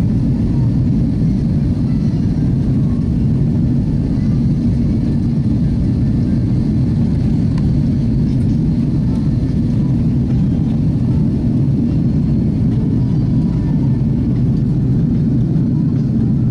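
Steady low rumble of an Airbus A330's jet engines, holding an even level throughout, with a faint high whine above it.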